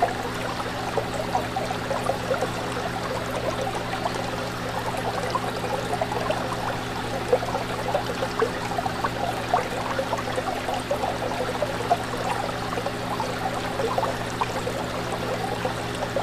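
Aquarium water bubbling and trickling steadily, with a dense spatter of small pops over a steady low hum.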